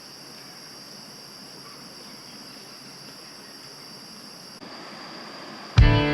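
Steady rushing noise of Sai Yok Yai waterfall with a steady high-pitched drone over it. The sound cuts off about four and a half seconds in, and loud guitar music starts near the end.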